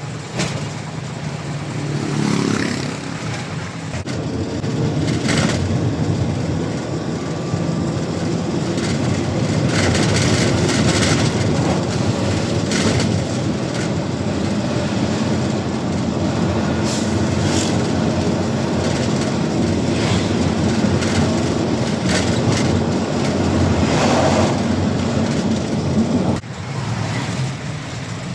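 Truck engine and road noise heard from inside the cab while driving, a steady heavy rumble with scattered rattles. The engine sound drops suddenly near the end.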